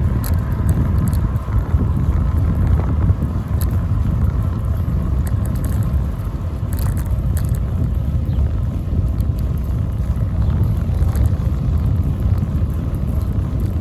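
Wind buffeting a phone microphone mounted on a moving bicycle: a loud, steady low rumble with scattered light clicks.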